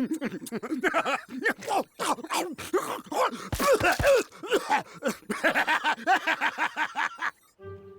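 Cartoon soundtrack: a character's rapid wordless groaning and grunting, with sharp comic sound-effect hits near the middle, over background music. It cuts off abruptly near the end, leaving a few held music notes.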